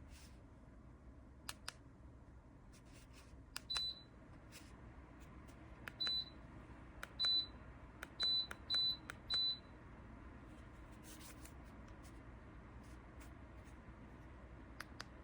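A Dreo tower space heater's controls being pressed: a click then a short high beep, six times, the beeps coming quicker near the middle, over a steady low hum.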